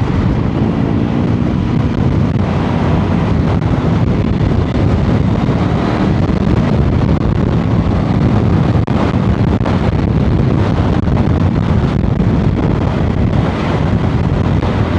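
Strong wind buffeting the microphone of a motorcycle riding at road speed, with the engine running underneath.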